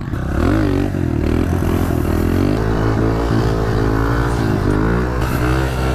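Honda CRF125 pit bike's single-cylinder four-stroke engine revving continuously, its pitch rising and dipping again and again as the throttle is worked through a wheelie.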